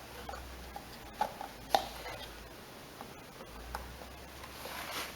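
Light clicks and taps of plastic and metal parts being handled, from fitting a mower's air filter housing with a screwdriver. Two sharper clicks stand out, one a little over a second in and one shortly after.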